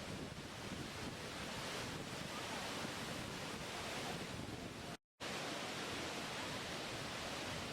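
Steady rushing of water, an even hiss with no distinct events, broken by a brief cut to total silence about five seconds in.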